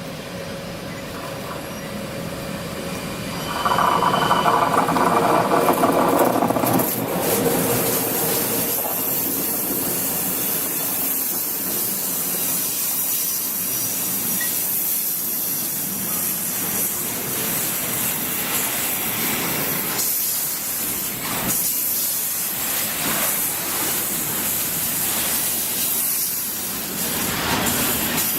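Railway train noise that builds up, then a loud pitched sound of about three seconds from about four seconds in. A steady rushing noise with repeated clicks follows.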